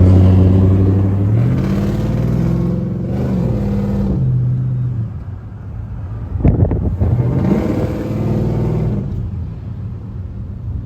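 Truck engine revving, its pitch climbing and dropping several times, with a brief cluster of sharp cracks about six and a half seconds in.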